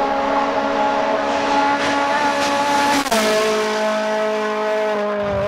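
Rally car engine running hard at high revs. About three seconds in the note drops abruptly, then slides slowly lower as the car drives away.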